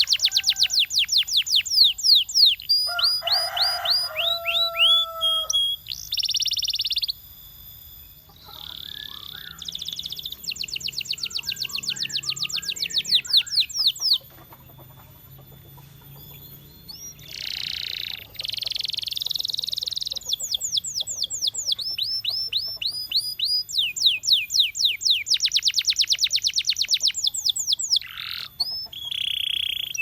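Canary singing: fast trills of rapidly repeated high notes, phrase after phrase, with a couple of short pauses between phrases.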